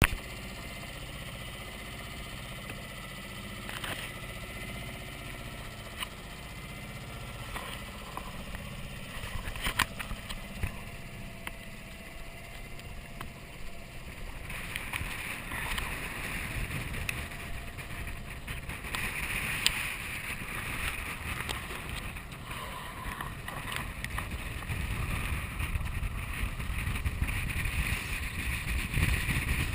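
Wind and water rushing past a sailboat under way in rough post-storm seas, with scattered sharp knocks from the boat. About halfway through the wash grows louder and rougher as wind buffets the microphone.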